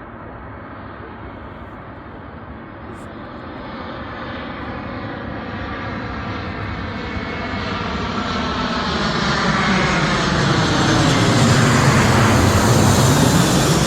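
An airliner's engines approach and pass close overhead, growing steadily louder and brighter, and are loudest near the end.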